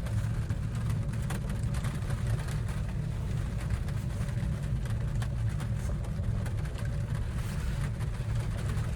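Steady low rumble and hum inside a moving gondola cabin, with scattered faint ticks over it.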